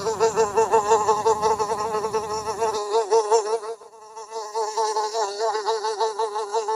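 Wasp buzzing in flight, a steady pitched buzz that wavers quickly up and down in pitch and grows briefly fainter about four seconds in.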